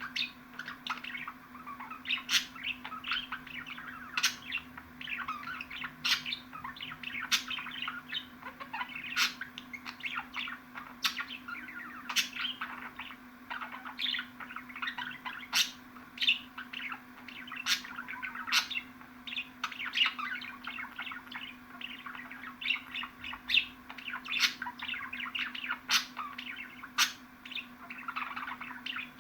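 Budgerigars chattering and chirping continuously, a dense run of quick warbles with frequent sharp clicks and squeaks. A faint steady hum runs underneath.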